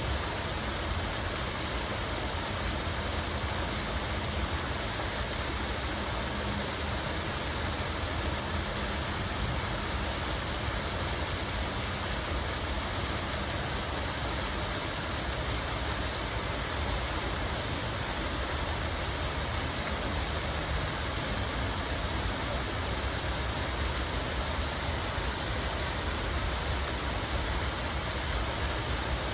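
Water flowing and splashing in a steady, unbroken rush, with a low rumble underneath.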